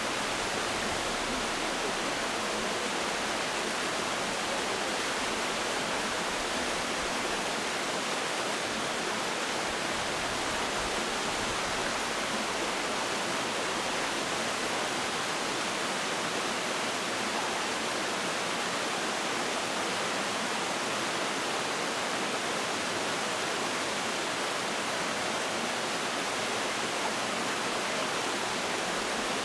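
Mountain valley stream rushing steadily, an even wash of water noise with no change.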